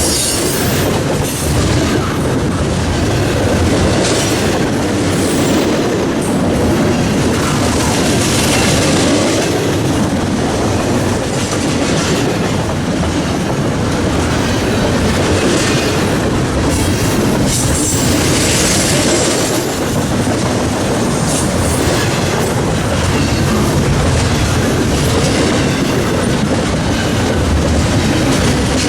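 Freight train cars rolling steadily past at close range, their wheels clicking and knocking over the rail joints again and again.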